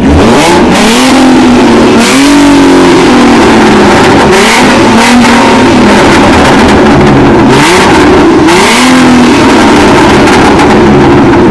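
Car engine revved hard in about five blips, its pitch rising and falling each time, very loud and close.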